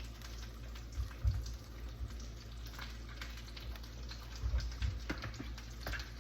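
Butter and oil sizzling and crackling in a pan with corn on the cob frying in it, with a few dull bumps about a second in and again near the end.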